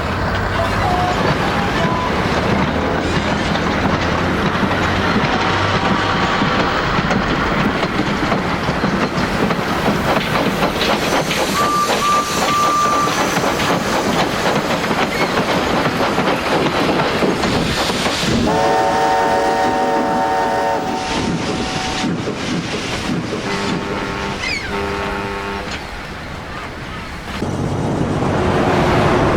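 A train running on the rails with steady wheel rumble and clatter. A short whistle toot comes about twelve seconds in, and later two longer whistle blasts of several notes sound together.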